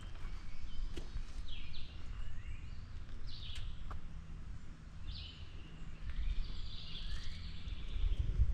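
Birds calling: several short chirps that slide in pitch, and a longer drawn-out call near the end, over a low steady rumble.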